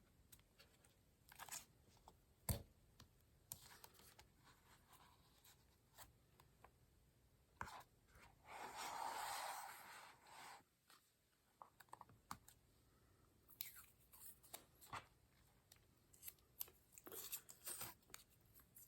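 Faint handling of washi tape and paper on a journal page: scattered light taps and clicks, with a scratchy rustle of about two seconds around eight seconds in as the tape is worked along the page edge.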